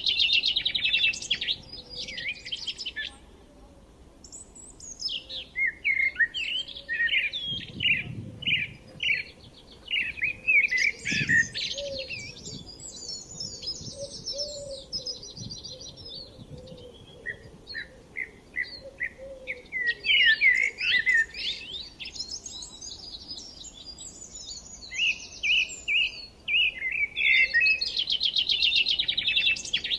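Several songbirds singing and chirping together, with rapid trills and quick series of high chirps that overlap almost without a break.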